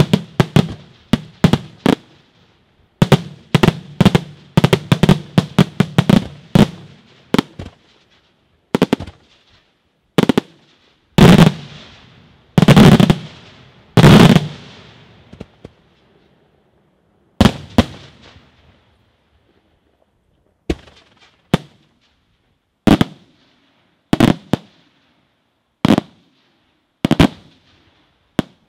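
Daytime aerial firework shells bursting overhead. A rapid string of bangs comes first, then three heavy bangs about eleven to fourteen seconds in, then single bangs a second or so apart.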